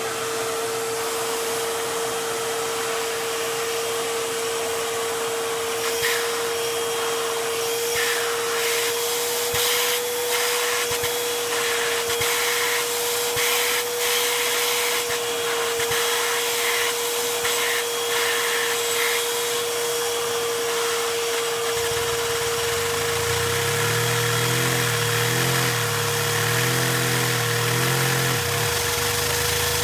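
A Lego one-cylinder vacuum engine running at high speed, driven by a vacuum cleaner's suction: a steady high whine over the rush of air through the hose. From about 22 seconds in, a lower wavering hum joins it.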